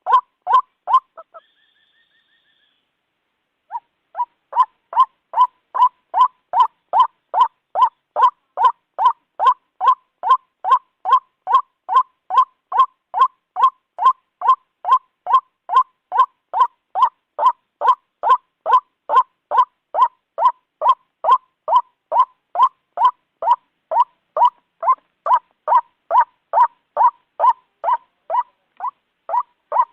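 Recorded calls of a white-breasted waterhen (ruak-ruak), one harsh note repeated over and over at about two a second, used as a bird lure. The calls stop about a second in, with only a brief faint whistle-like tone in the gap, and start again about four seconds in, keeping a steady rhythm.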